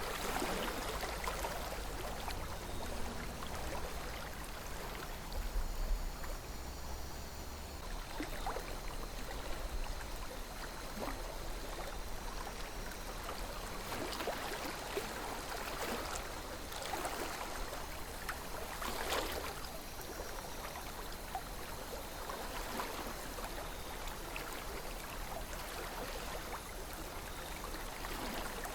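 River water flowing steadily, with brief louder gurgles and splashes every few seconds.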